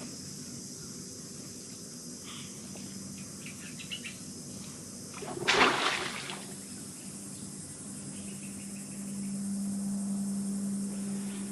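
Steady high-pitched buzz of insects in the mangroves. About halfway through there is one brief, loud noisy burst. Over the last few seconds a low steady hum comes in and grows louder.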